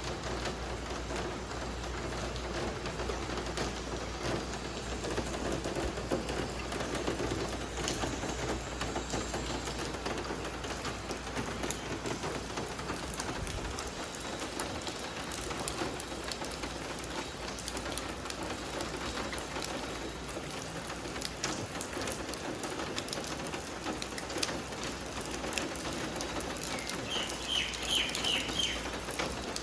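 Steady rain falling, with many separate drop ticks. Near the end a bird gives a quick run of about six high chirps.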